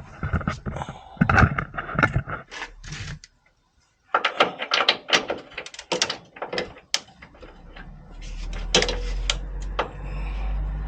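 Clinks, knocks and rattles of metal hand tools being handled and fitted, a quick run of them after a short gap. A steady low hum takes over for the last few seconds.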